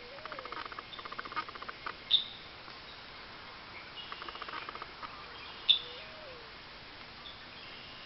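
Eastern bluebirds at the nest: two short, sharp chirps about three and a half seconds apart, over trains of faint rapid ticking.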